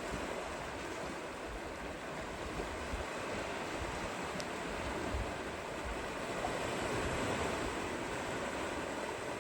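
Steady rushing of surf on a shore, swelling a little about two-thirds of the way through.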